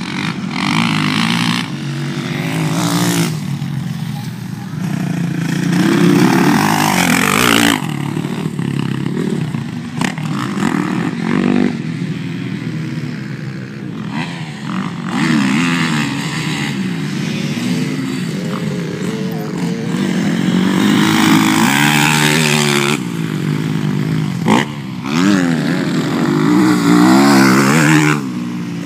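Motocross dirt bike engine running and revving, its pitch rising and falling again and again as the throttle is worked.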